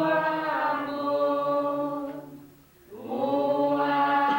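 People singing a slow Catholic hymn in long, drawn-out notes, pausing for breath about two seconds in before starting the next phrase.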